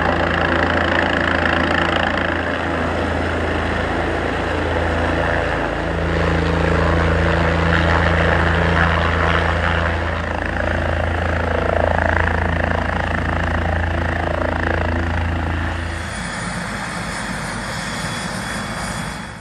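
A large vehicle engine running steadily close by, a low hum that drops away about sixteen seconds in.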